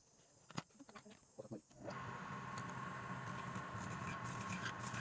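An electric lathe motor starts about two seconds in and runs steadily with a low hum and a thin steady whine. Scattered light clicks come before it.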